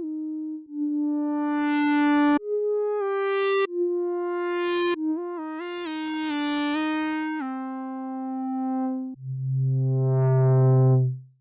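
Surge XT software synthesizer playing a slow line of held, pitched notes that step up and down, several of them growing brighter as they sound. It ends on a loud low note that cuts off abruptly.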